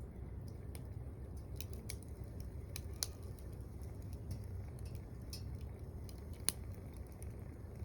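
Wood fire crackling in a small wood-burning stove: scattered sharp pops over a low steady rumble, with two louder pops about three and six and a half seconds in.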